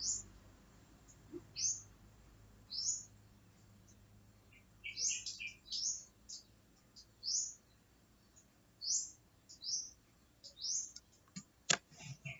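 Small birds chirping: short, high, upward-sweeping chirps repeated every second or so, with a sharp click near the end.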